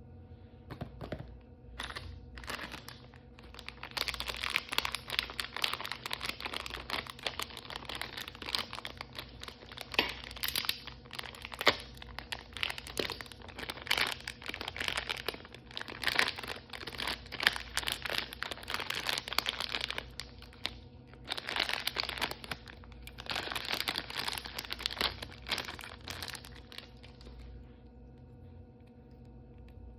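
Toy blind-bag packaging being torn open and crinkled by hand: a dense, crackling rustle of crumpling wrapper that starts a couple of seconds in. It pauses briefly twice past the middle and stops a few seconds before the end.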